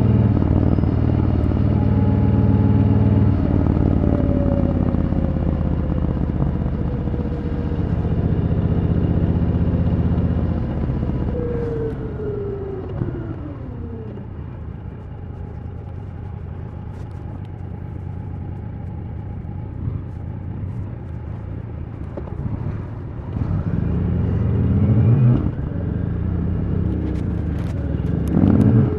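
Triumph Thunderbird Storm's 1700 cc parallel-twin engine running at speed on the motorway. It pulls steadily for about ten seconds, the revs fall away and it runs quieter for a while, and near the end it pulls hard again with the revs rising.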